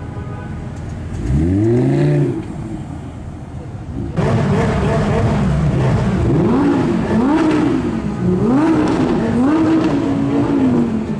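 Sports car engines revving. One quick rise in revs comes early on. About four seconds in, a louder engine cuts in and its revs climb and drop several times in a row, roughly once a second.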